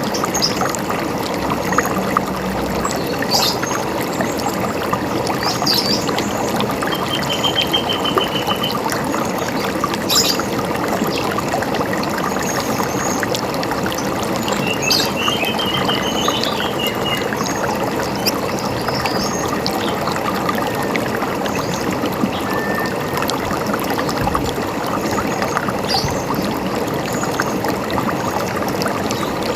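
Running river water, a steady rushing flow, with birds chirping now and then above it, including two short rapid trills.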